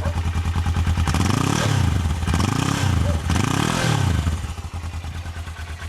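A Suzuki GS500E's air-cooled parallel-twin engine, on its original exhaust, is revved in about three quick blips. It then settles back to idle near the end.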